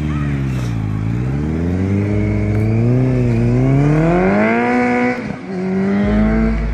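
Honda CBR650F inline-four motorcycle with a Yoshimura exhaust accelerating, revs climbing hard; about five seconds in the revs break off briefly and pick up again lower as it shifts up a gear, then climb again.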